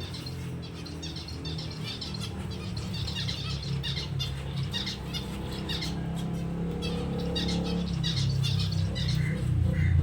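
Finches chirping, with many short high calls overlapping, over a steady low drone that grows louder toward the end.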